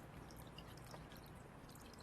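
Near silence: faint background hiss with a few faint, short high ticks.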